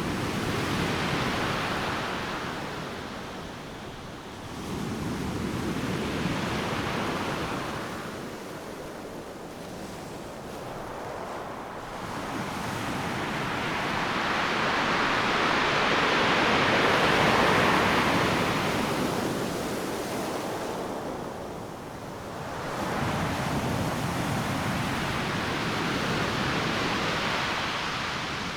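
Ocean surf breaking on a beach: waves crash and wash in slow surges every several seconds, the longest and loudest swelling about halfway through.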